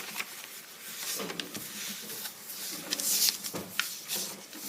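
A sheet of paper being folded and creased by hand: soft rustling and crinkling with small ticks, loudest about three seconds in.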